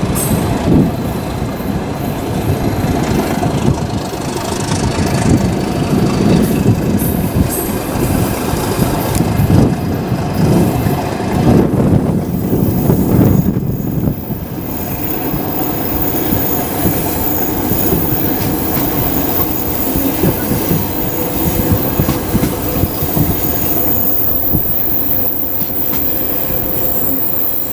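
Suburban passenger train of a ChME3 diesel locomotive and coaches rolling along the rails, with wheel rumble and clatter for the first half. Through the second half a steadier sound with high squealing wheels runs as the train comes in to its stop.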